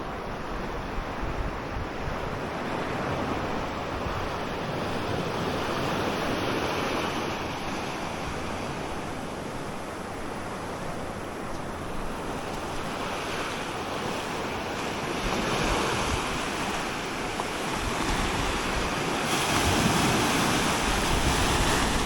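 Ocean surf washing onto a beach, swelling and easing, with wind blowing across the microphone.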